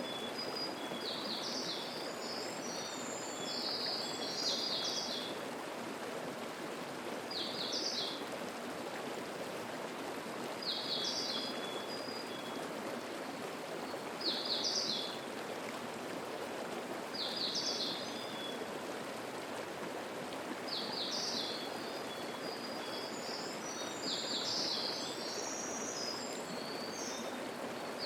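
Babbling mountain stream flowing steadily, with a songbird repeating a short high phrase about every three to four seconds. A second bird adds scattered higher notes near the start and again near the end.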